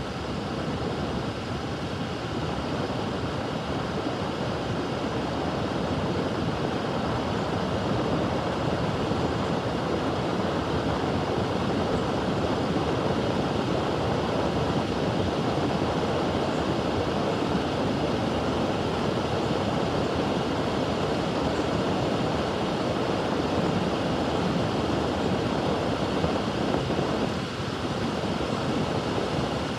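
A freight train rolling past on the rails with a steady rushing rumble of wheels and cars, and a short dip near the end.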